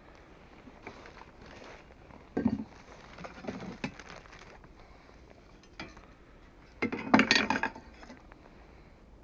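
Wooden clatter and knocking in three bunches, the loudest near the end: pieces of wood being handled and knocked together.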